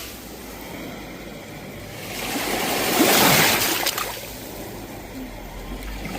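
Sea waves on the shore: one wave swells up about two seconds in, breaks with a loud rushing wash and ebbs away, and the next begins to build near the end.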